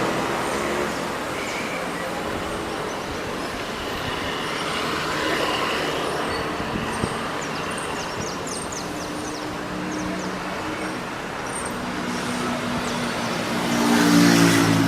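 City street traffic: a steady wash of cars and buses passing, growing louder near the end.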